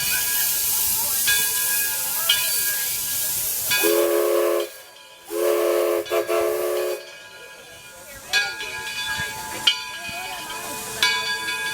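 Steam whistle sounding a chord in two blasts, a short one about four seconds in and a longer one just after, over a steady hiss of escaping steam.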